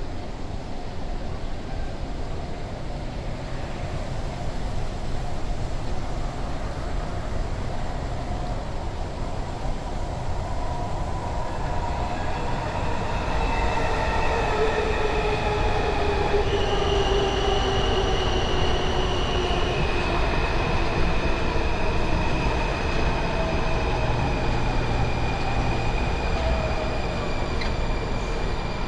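Washington Metro train running and slowing, its motor whine falling in pitch through the middle, with high, steady wheel squeals joining about halfway and the rumble slowly growing louder.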